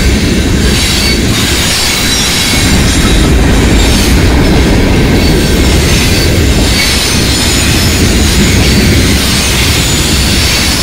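Covered hopper cars of a freight train rolling past close by: a loud, steady rumble of steel wheels on the rails, with a faint high squeal above it.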